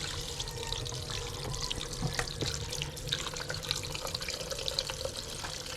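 Water running from a tap into a small pressure cooker, a steady splashing sprinkled with small drips.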